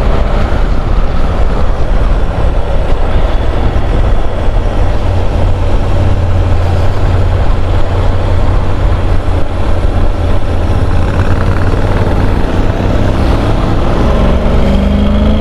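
Riding on a Honda NC750 motorcycle, a steady rush of wind buffeting the helmet microphone, with the parallel-twin engine's note faintly under it, changing pitch near the start and again near the end.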